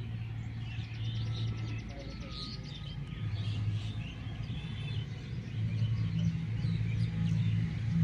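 Many small birds chirping and tweeting in quick, overlapping calls, over a low steady hum that drops out about two seconds in and returns a second later, growing louder toward the end.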